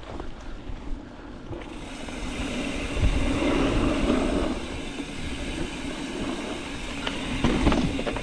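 Mountain bike rolling over a rough dirt trail: a steady rush of tyre and riding noise with scattered rattles and knocks, swelling louder about three seconds in and again near the end.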